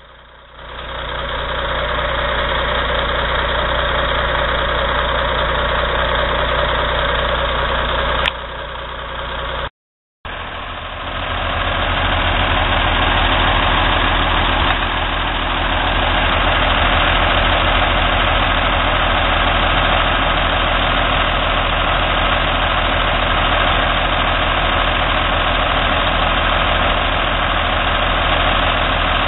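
Log truck's heavy diesel engine running steadily under way, with a deep even drone. The sound drops out for a moment about ten seconds in.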